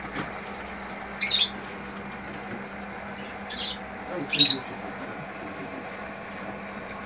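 Three short, shrill squawks from a caged bird, the last the loudest, over a steady low hum.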